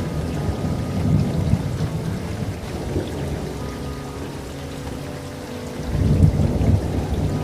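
Steady rain with rolling thunder: a rumble in the first couple of seconds eases off, then a fresh roll of thunder builds about six seconds in.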